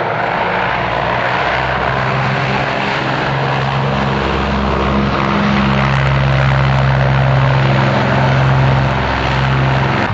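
Propeller aircraft engine droning steadily, slowly growing a little louder as it passes.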